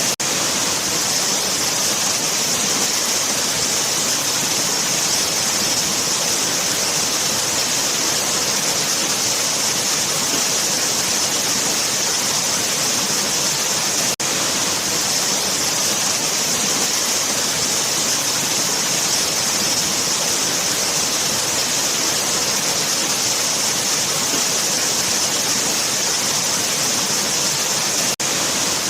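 Waterfall: steady rushing of falling water, heavy in hiss, with two split-second dips, about halfway and near the end.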